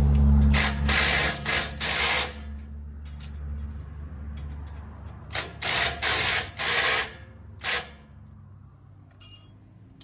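Hand ratchet wrench clicking in short bursts of strokes, a handful near the start and another handful a few seconds later, as bumper bolts are turned. A low rumble fades out in the first couple of seconds.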